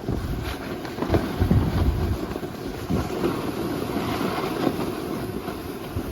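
Wind buffeting a phone's microphone: a steady rush with irregular low gusts.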